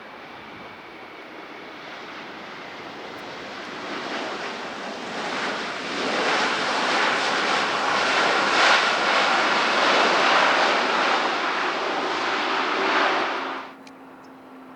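Jet airliner's engines growing louder as it passes close by: a steady rushing noise with a faint whine. The sound cuts off suddenly about a second before the end, leaving a faint low hum.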